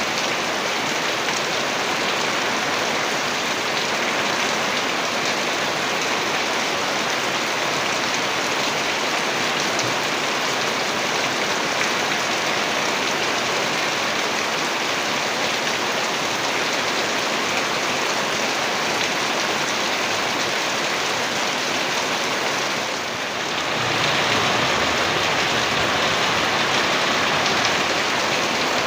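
Heavy rain falling steadily, a dense even hiss of drops. About three-quarters of the way through it dips briefly, then comes back slightly louder and deeper.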